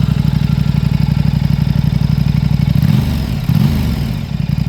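2013 KTM RC8R's V-twin engine idling with a steady pulse. About three seconds in it gets a brief throttle blip, rising and falling back to idle within about a second.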